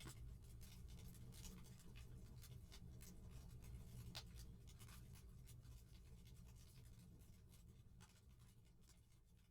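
Faint fireplace crackling: scattered small pops and snaps over a low rumble, fading out near the end.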